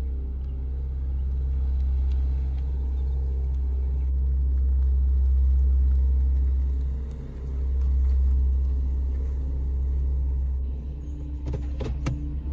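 Low, steady rumble of a car, heard from inside the cabin, with a brief dip about seven seconds in. A few sharp clicks sound near the end.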